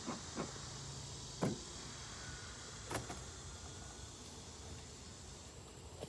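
Wooden beehive parts knocking and scraping as the hive is worked open, with a few sharp knocks, the loudest about a second and a half and three seconds in. A steady high hiss runs underneath and drops away near the end.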